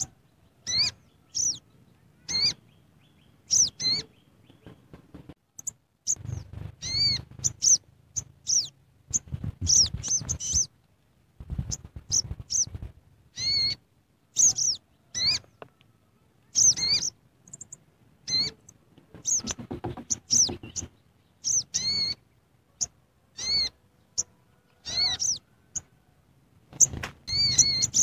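A bird chirping over and over in short, arched calls, about one or two a second, with dull low thumps or rustling heard among the calls now and then.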